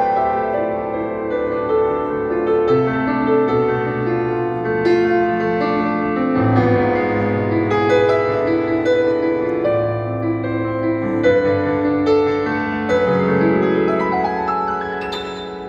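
Live soft rock band playing a slow instrumental passage, led by sustained keyboard chords over a deep bass that change every second or two, with plucked notes on top.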